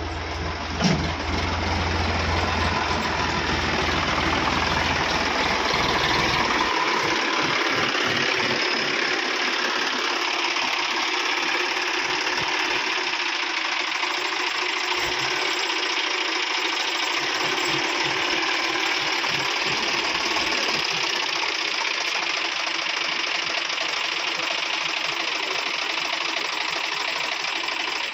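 A tractor engine running steadily, with a low hum that drops away about six seconds in. A single sharp knock sounds about a second in.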